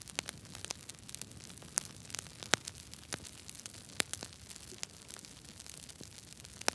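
Wood fire crackling in a fireplace: faint hiss with irregular small snaps and pops, a few sharper pops scattered through.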